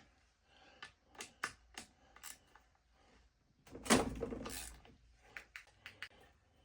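Scattered light clicks and knocks of hand tools and metal chainsaw parts being handled on a workbench, with one louder, longer clatter about four seconds in.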